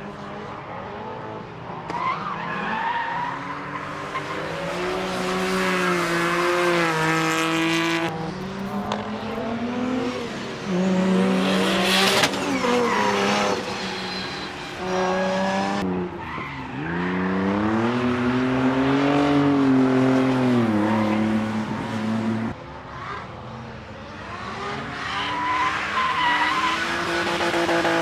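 Retro cars running on a race track, their engines revving up and falling back repeatedly through gear changes and lifts as they pass, with tyre squeal from cars sliding sideways.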